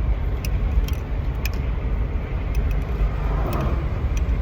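Steady low rumble like a car's interior with the engine running, with a few light clicks over it.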